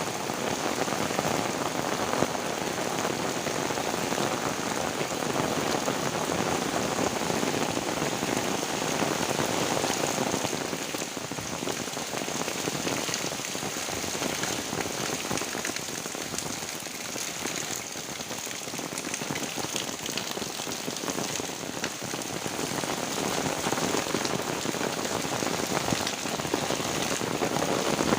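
Heavy rain falling steadily, a dense patter of drops on surfaces, easing slightly for a while mid-way before picking up again.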